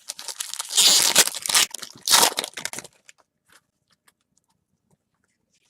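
A foil trading-card pack wrapper torn open and crinkled, in two loud rustling bursts over about three seconds, then only a few faint ticks.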